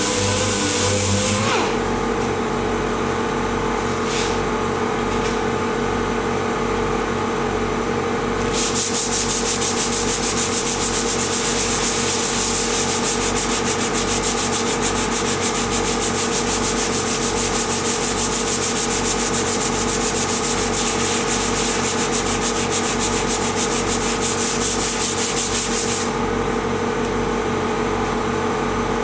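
A power sander runs steadily on vehicle bodywork. For most of the middle it is pressed harder into the surface, giving a louder, gritty sanding hiss that eases off again near the end.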